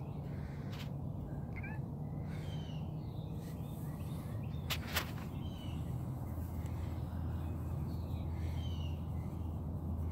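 Birds giving short chirps every second or so over a steady low hum, with a sharp click just before the middle.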